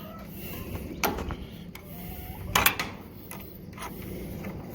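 A few sharp knocks and clicks of handling in a chicken coop, the loudest about two and a half seconds in, over a low steady background.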